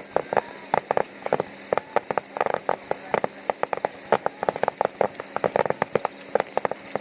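Fireworks crackling: rapid, irregular sharp pops, several a second, without pause.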